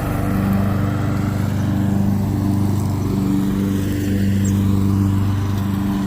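Riding lawn mower engine running steadily while cutting grass.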